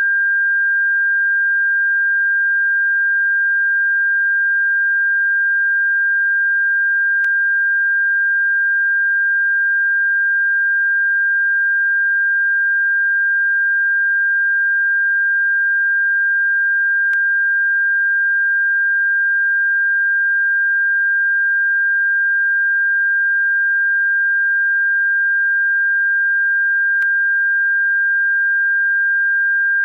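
A steady, unbroken pure sine tone of a single high pitch, played as a bird-repellent frequency. Three faint clicks come about ten seconds apart.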